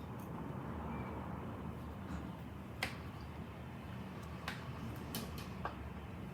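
Storm wind rumbling steadily, with a handful of sharp clicks scattered through the second half.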